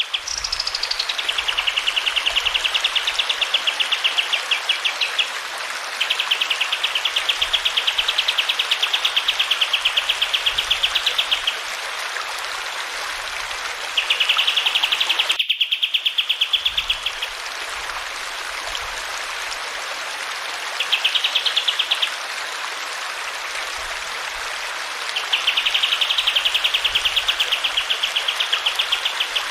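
A kapas tembak songbird singing long, rapid trills, each phrase lasting from one to several seconds with short pauses between, over the steady sound of running water. The song briefly cuts out about halfway through, where the recording is spliced.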